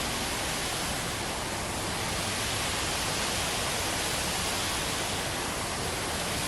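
Steady, even rushing noise with no change in level or pitch.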